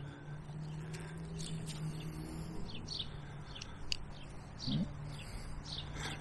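A songbird calling with short, high, downward-sweeping chirps repeated every half second or so, over a steady low hum.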